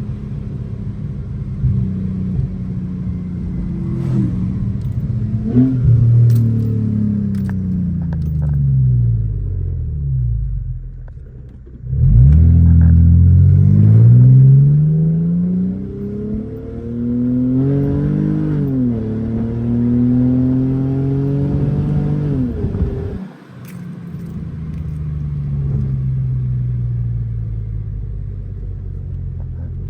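Car engine pulling under way, its pitch rising and falling as the car speeds up and eases off. It gets much louder with a strong acceleration about twelve seconds in, climbs again through later gears, then lifts off briefly before settling back to a steady run.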